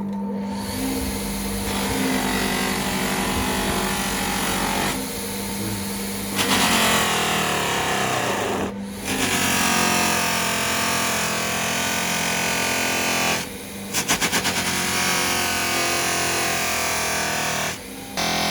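Electric power tool running steadily with a motor hum, in several stretches that break off abruptly and start again.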